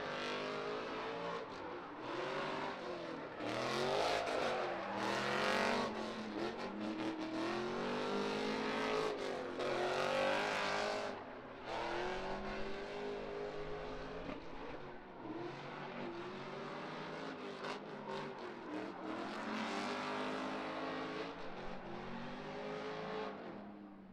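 Drift car engine revving up and down over and over, each rise and fall lasting a second or two, with surges of tyre squeal as it slides. The sound fades away near the end.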